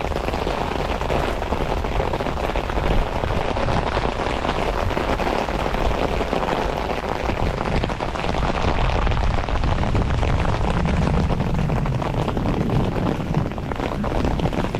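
Heavy rain falling steadily, a dense hiss of drops on the ground and foliage, with a low rumble underneath that grows stronger in the second half.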